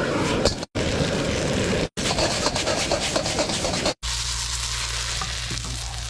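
Stir-frying in a wok: food sizzling and a spatula scraping and stirring, in short clips cut off suddenly three times. After about four seconds it changes to a steadier, quieter hiss over a low steady hum.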